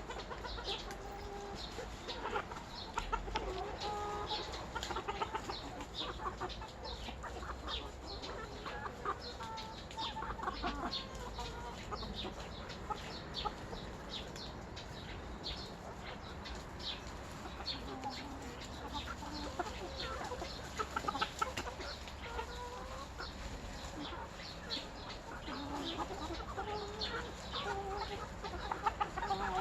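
A flock of chickens clucking, with short calls scattered throughout and many short sharp ticks among them.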